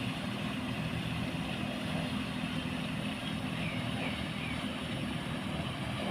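Water wheel turning in a pond: a steady low mechanical hum under an even wash of noise.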